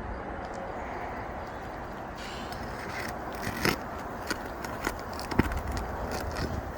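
Metal roofing snake tool working under asphalt shingles to pull roofing nails: scraping with several sharp metallic clicks and knocks in the second half, the loudest about 5.4 seconds in, over a steady outdoor hiss.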